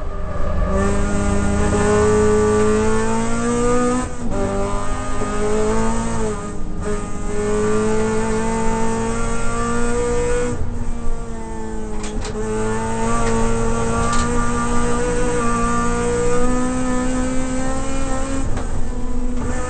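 Toyota Corolla AE92 race car's four-cylinder engine running hard at high revs, heard from inside the cabin. The pitch climbs slowly and drops in short breaks about five times, at gear changes and lifts for corners.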